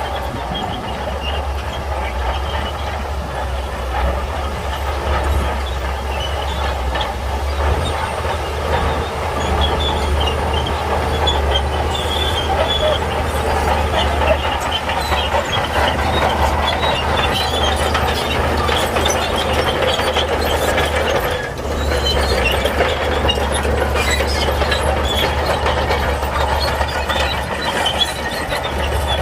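Shantui crawler bulldozer working stone: its diesel engine runs steadily under load while the steel tracks and rock give a dense, continuous rattling, with a brief dip about three-quarters through.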